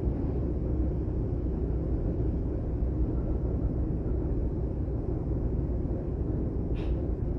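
Class 422 (ET 422) electric multiple unit running, heard from inside the passenger car: a steady low rumble of the wheels on the track, with a brief high squeak near the end.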